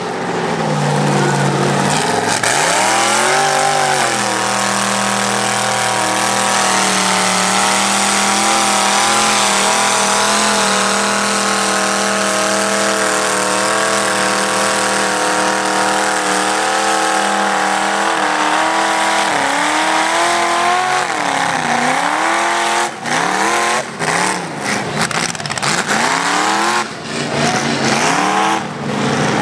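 Motor vehicle engine revved up and held at high revs for about fifteen seconds, then dropping and climbing sharply several times near the end, with brief cut-outs.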